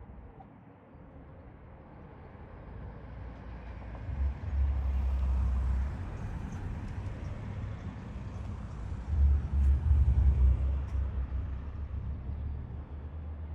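A train passing: a rushing noise that builds, peaks with a low rumble through the middle and fades away.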